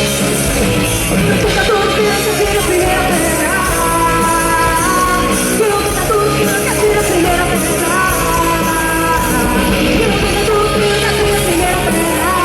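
Live rock band playing loud and steady: drums, bass and guitars under a singer's vocal line.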